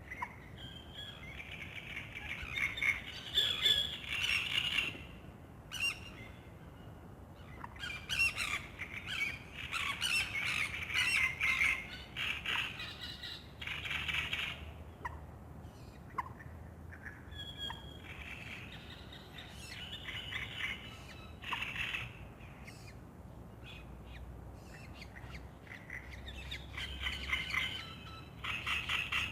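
Wild birds singing at dawn: several birds give bursts of quick, chattering song phrases again and again, over a faint steady low background hum.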